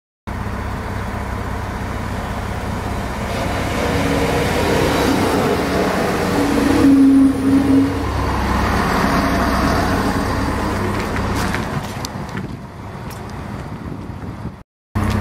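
Diesel multiple-unit regional train running along the station platform: a steady low engine rumble that swells about three seconds in and fades after about eleven seconds. A short two-part tone sounds about halfway through.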